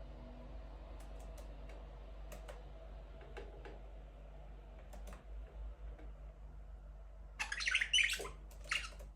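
Budgerigars in an aviary: scattered faint clicks and soft chirps, then a loud burst of harsh chirping squawks about seven seconds in and a shorter one just before the end. A low steady hum runs underneath.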